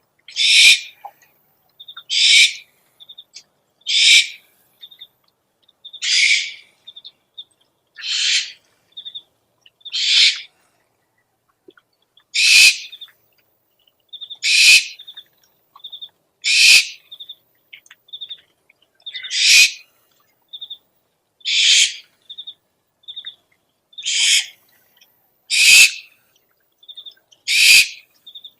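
Owl lure recording: a loud, rasping owl screech repeated about every two seconds, with faint short high pips in between.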